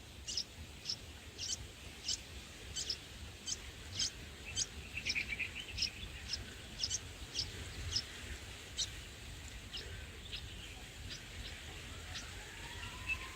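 A small bird chirping: a run of short, high calls, about one or two a second, growing fainter in the second half. A faint rising tone starts near the end.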